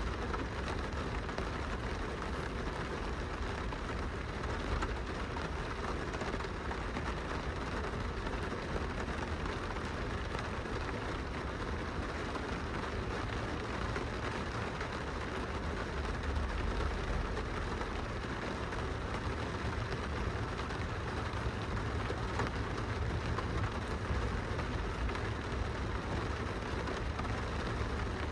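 Steady rain falling on window glass, with a continuous low rumble underneath.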